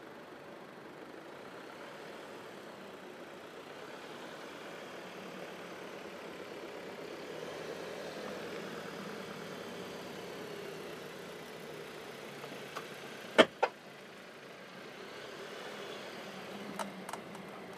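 Jaguar E-Pace engine running steadily while the car drives off-road, its level swelling and easing gently. Two sharp knocks come close together about two-thirds of the way through, the loudest sounds here, with a few lighter clicks near the end.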